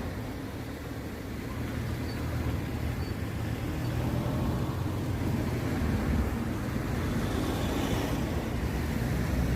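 Low, steady rumble of vehicle engines at a railway level crossing, growing louder from about two seconds in.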